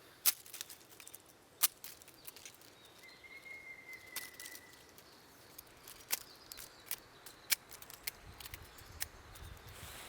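Irregular sharp crackles and snaps, roughly one a second, like dry leaf litter and twigs being trodden or handled. A faint thin whistle is held for about a second and a half near the middle.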